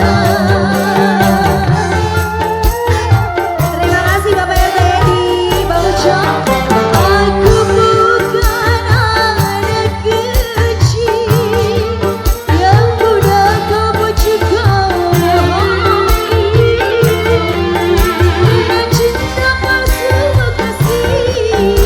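Live dangdut band music: a steady drum beat under a wavering lead melody, played without words.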